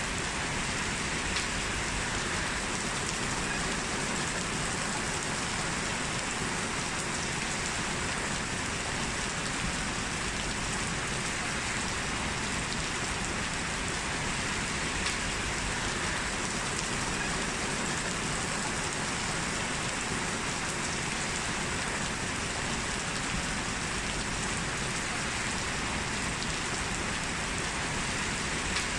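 Heavy rain pouring down steadily as a dense, even hiss, with a couple of slightly louder drop ticks.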